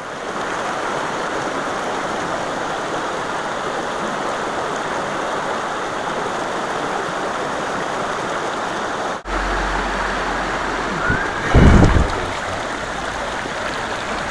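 Shallow, stony river running over rocks: a steady rush of water. After a brief dropout about nine seconds in, a low rumble comes in under it, with a short, louder low thump about two seconds later.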